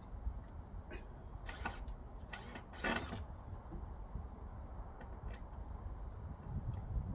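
A few short scrapes and creaks as a heat pump's roof cover is handled and fitted, about one and a half seconds in and again near three seconds, over a steady low rumble.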